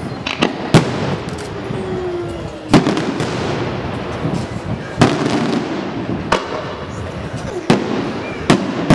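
Aerial firework shells bursting: sharp bangs at irregular gaps of a second or two, some in quick succession, over a continuous crackle.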